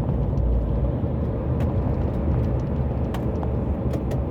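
Lorry driving at motorway speed: a steady low rumble of engine and road noise, with a few faint ticks.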